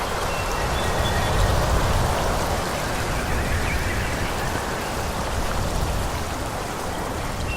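Wind blowing through forest trees: a steady rush of moving leaves and branches over a low, gusty rumble, swelling and easing gently.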